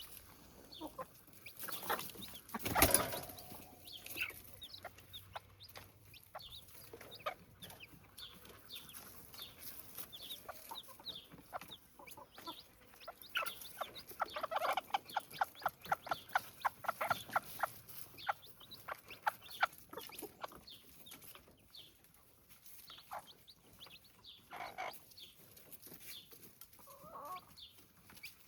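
Chicks pecking at their feed, with short calls scattered throughout. There is a fast run of taps about four a second for several seconds midway, and one louder knock about three seconds in.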